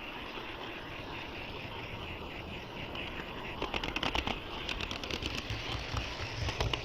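HO-scale model train rolling along its track with a steady running noise, joined about three and a half seconds in by a run of irregular clicks, typical of wheels crossing rail joints.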